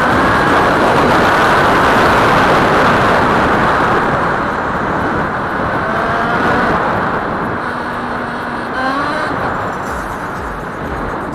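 Kawasaki KDX125's 125 cc two-stroke single-cylinder engine running, its revs rising and falling under a heavy rushing noise, with a quick rise in revs about nine seconds in.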